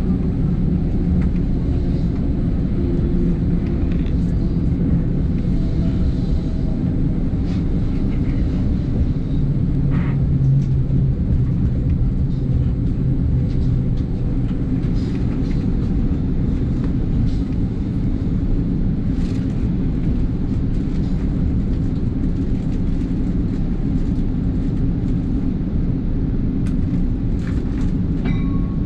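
Steady low rumble of an NJ Transit commuter train running, heard from inside the passenger car, with faint scattered clicks and rattles.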